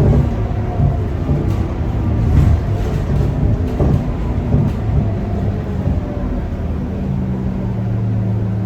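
Scania K230UB bus's five-cylinder diesel engine running, with rattles from the bus over a low rumble; about seven seconds in the engine note settles into a steady hum.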